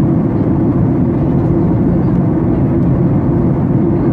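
Steady rumble of a jet airliner's engines and airflow heard inside the passenger cabin.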